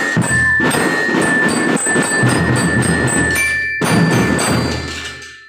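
Children's drum band playing, drums under bell-lyra (glockenspiel) notes; the playing breaks off briefly a little before four seconds in, then a last stroke rings and fades away near the end.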